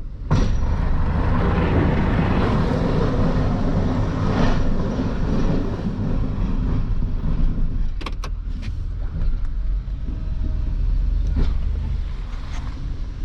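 Plow truck's engine running as it works a snowy parking lot. A rough, noisy stretch in the first several seconds eases off, and a few sharp clicks come about eight seconds in.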